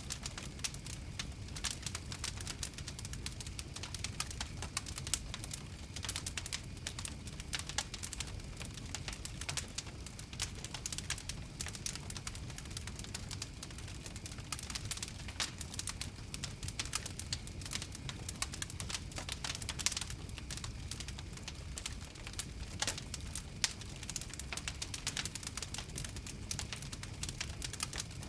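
Open fire crackling: dense, irregular pops and snaps over a low, steady rumble.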